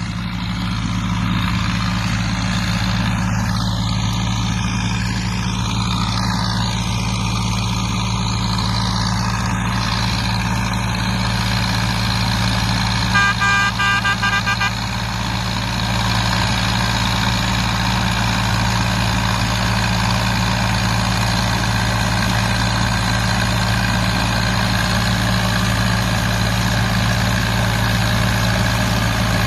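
Zetor 5245 tractor's four-cylinder diesel engine running steadily. About halfway through, a horn sounds in a quick run of short beeps for about two seconds.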